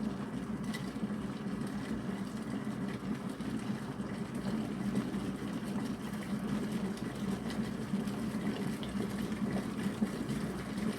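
Cosori glass electric kettle at a full boil just before it switches off: water bubbling with a steady low rumble.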